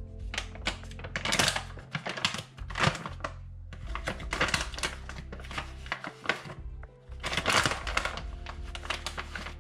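Kitchen handling sounds: many short clicks, knocks and clatters of dishes and utensils being moved and used, over soft background music.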